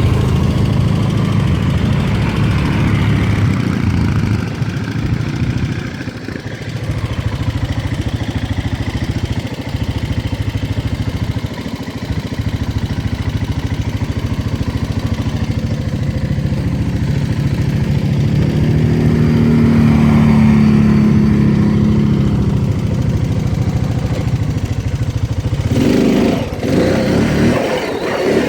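ATV engine running under way, its note shifting with the throttle; it pulls harder about two-thirds of the way through, with a few sudden changes near the end.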